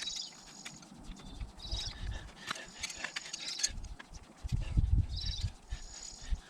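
Birds chirping in short repeated calls, with scattered sharp clicks and uneven low rumbles underneath.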